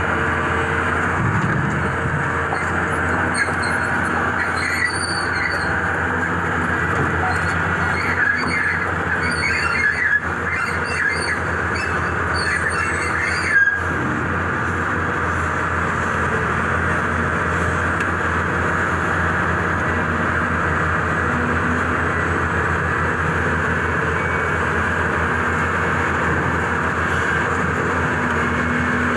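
Volvo EC480DL excavator working, its diesel engine and hydraulics running steadily, with metallic squeals from about three to twelve seconds in and a single sharp clank in the middle.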